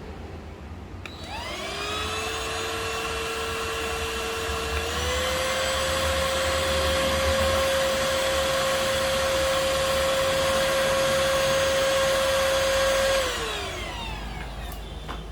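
Perysmith Xtreme XS1 handheld cordless vacuum switched on: its motor spins up with a rising whine, then runs steadily. About five seconds in it steps up a little in pitch, as on its higher suction level. Near the end it is switched off and winds down with a falling whine.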